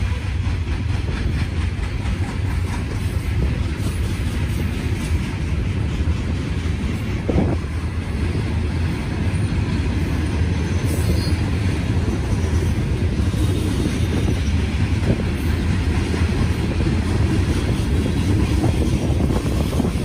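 Loaded coal train cars rolling steadily past with a continuous wheel-on-rail rumble, and a few brief, faint wheel squeals.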